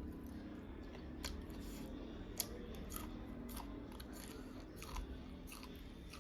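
A person chewing duck curry close to the microphone, with irregular sharp clicks and crunches.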